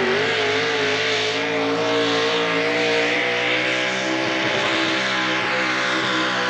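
Modified four-wheel-drive pulling truck's engine running at high revs under full load during a pull down the track, its pitch holding high and steady with slight wavering.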